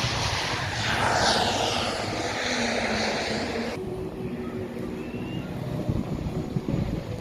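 A fixed-wing airplane's engines passing overhead, a loud rushing noise whose tone sweeps as it goes by. About four seconds in the high part cuts off abruptly, leaving a low rumble with scattered low thumps.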